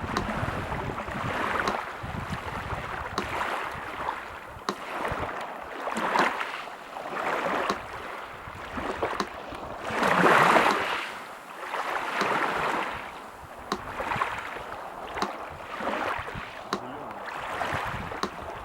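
Sea surf washing in and out in swells, the biggest about halfway through, under a metronome ticking slowly, about one tick every second and a half.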